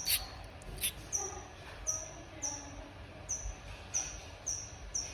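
Nestling bird giving a run of short, high-pitched begging chirps, each falling slightly in pitch, about one every 0.7 seconds, as it is hand-fed. A couple of sharp clicks come just before the chirps begin.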